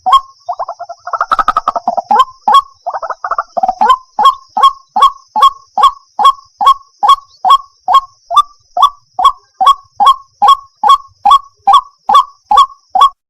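White-breasted waterhen calling: a quick run of rapid, jumbled notes in the first few seconds, then a steady series of loud, honking calls about two to three a second. A faint steady high hiss lies behind the calls.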